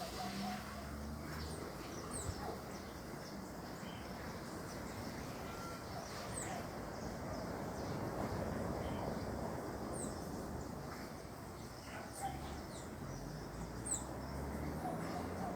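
Birds chirping: scattered short, high calls every second or two over a steady outdoor background hiss.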